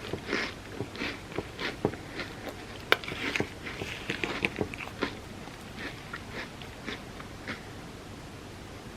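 Close-miked eating of a Biscoff cookie butter ice cream sundae: bites, chewing and crunching as a run of short, crisp clicks. One sharp click about three seconds in is the loudest, the sounds are busiest in the middle and thin out over the last few seconds.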